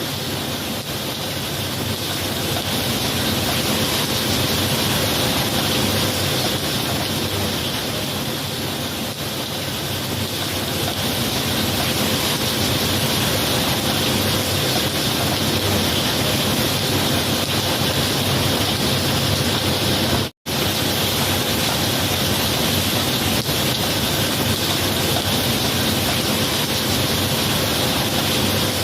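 Steady heavy rain, an even wash of noise with no thunder; it drops out completely for a split second about twenty seconds in.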